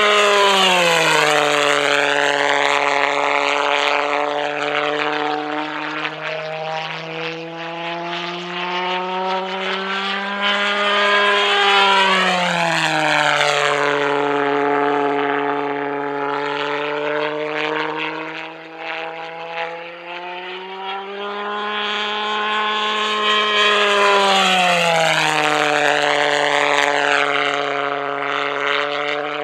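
Pulsejet of a radio-controlled Heinkel He 162 model buzzing as the model flies past three times, about twelve seconds apart; each time it goes by, the buzz drops sharply in pitch and then slowly climbs again as it comes round.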